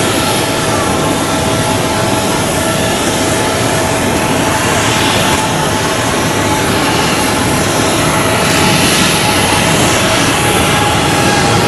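Jet airliner engines running loud and steady, a dense rush of engine noise with a faint high whine held at one pitch, growing a little louder about two-thirds of the way in.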